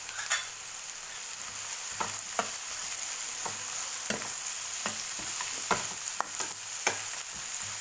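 Chopped onions, ginger-garlic and whole spices sizzling in mustard oil in a frying pan with a steady hiss while a spoon stirs them. The spoon's scrapes and taps against the pan come at irregular intervals.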